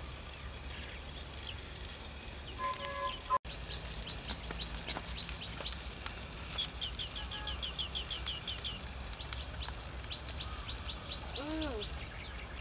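Birds chirping: repeated short, downward-sweeping chirps, with a quick run of them in the middle, and a lower rising-and-falling call near the end, over a steady low rumble. The sound drops out for an instant about three and a half seconds in.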